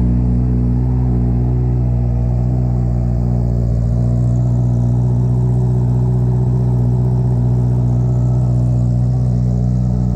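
2019 Honda CBR650R inline-four engine running loud and steady at a constant speed through an Akrapovic Racing Line titanium full exhaust system with no catalytic converter.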